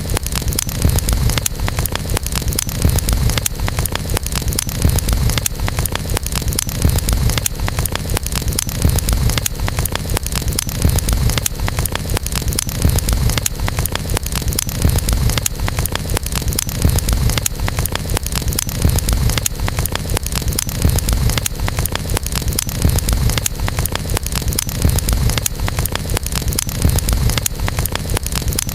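Wood campfire burning, crackling with dense small pops over a steady low rumble.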